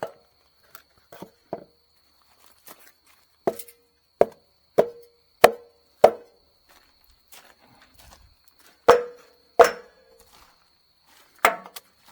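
A series of sharp knocks, each with a short ring: five in quick succession about two-thirds of a second apart, then two more, then a last one near the end.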